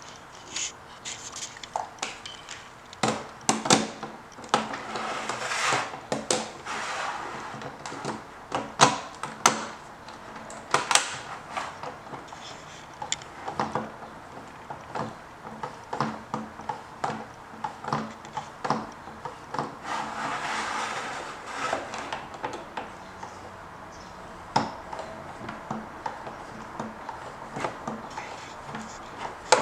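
A yellow balloon being inflated and handled: stretches of rushing air into the balloon, mixed with many scattered knocks, clicks and rubber handling sounds.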